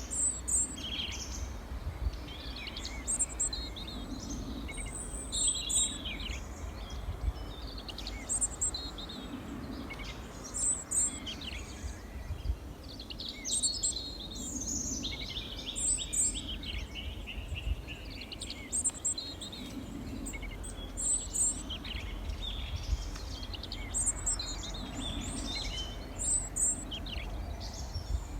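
Several small songbirds chirping and singing together, with short high calls repeating every second or two over busier chatter, above a steady low rumble.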